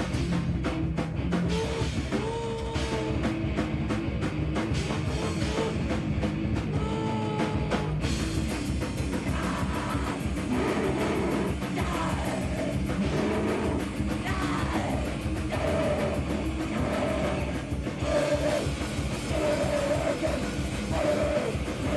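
A live heavy rock band plays loud, with drum kit and amplified instruments. Even drum hits carry the first part, and from about eight seconds in a bright, hissing wash joins the music.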